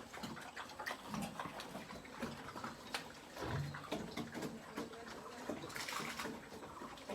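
Piglets eating rice cakes: many small chewing and smacking clicks, with a couple of low grunts.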